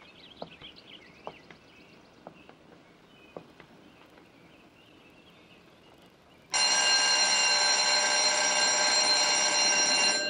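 A loud bell ringing steadily, starting suddenly about six and a half seconds in and stopping abruptly about three and a half seconds later. Before it there are only faint high chirps and a few light clicks.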